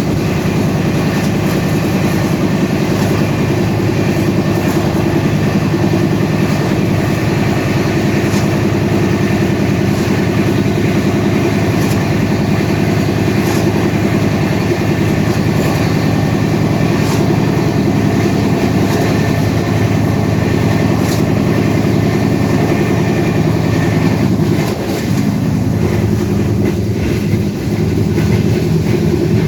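Train running on the rails: a steady, loud rumble with the clatter of wheels over the track and scattered clicks. The sound changes briefly about 25 seconds in.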